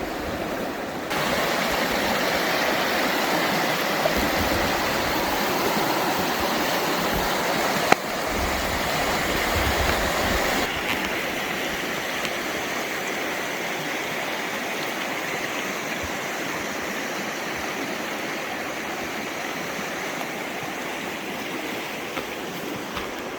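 Mountain river water rushing over rocks, a steady noise whose level steps up or down abruptly a few times. A single sharp click about eight seconds in.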